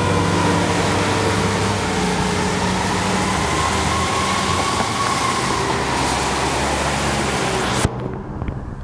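Fire truck siren wailing slowly, its pitch sagging and then rising again over several seconds, over the low rumble of the truck's engine. The sound cuts off suddenly near the end.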